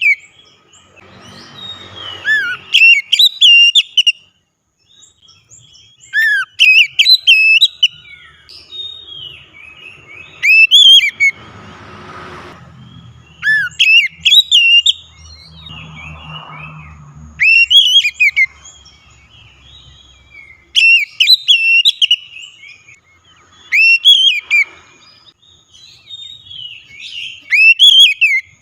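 Oriental magpie-robin (kacer) in full song: loud, clear whistled phrases with quick up-and-down glides, delivered in short bursts every two to four seconds.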